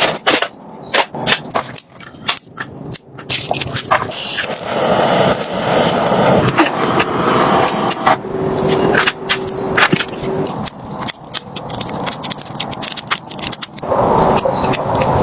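Many quick knocks, clicks and scrapes of camp gear being handled, over a rushing noise that swells about four seconds in and again near the end.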